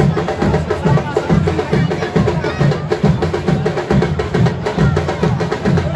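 Football supporters' drum section (bateria) playing a fast samba-style groove: deep bass drums pounding about three times a second under dense snare and other percussion.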